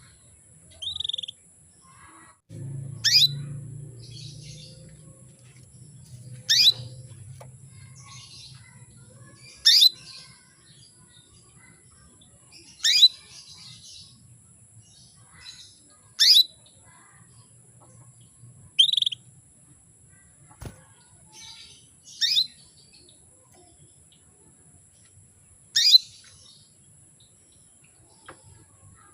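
Female canary calling to a male: single short, sharp chirps that sweep down in pitch, repeated about every three seconds, with a couple of short, even notes in between. This is the call of a hen in breeding condition, used to bring a male canary into song.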